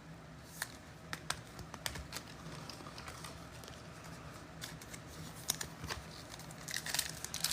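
Faint, scattered clicks and taps of trading cards and packs being handled, with denser rustling starting near the end.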